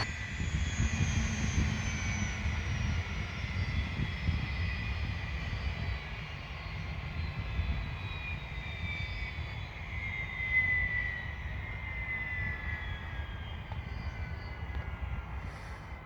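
Boeing B-17G Flying Fortress flying over, its four Wright R-1820 Cyclone radial engines droning steadily. The pitch slides slowly down and the sound fades as the bomber moves away.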